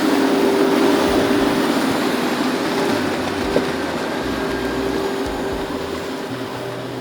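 A large engine running steadily with a constant hum, easing off slightly in level toward the end.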